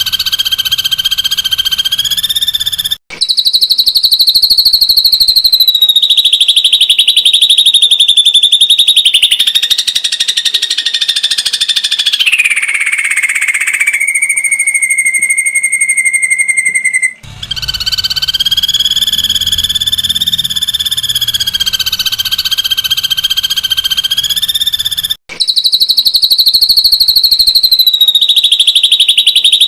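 Ashy drongo giving its rapid-fire 'tembakan' call: a loud, dense, high-pitched trill of very fast pulses that runs almost without pause. It breaks off briefly three times, and in the middle it gives way for about three seconds to a steadier, lower held note.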